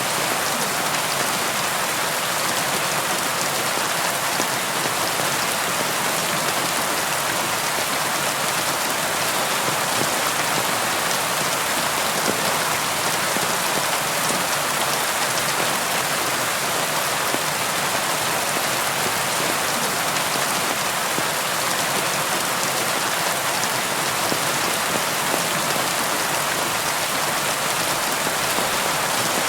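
Steady rain falling on a surface, a dense even patter of raindrops with no thunder.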